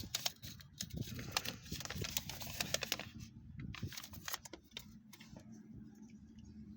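Quick clicks and rustles of small plastic toy parts and packaging being handled, thinning out about three seconds in, leaving a low steady hum.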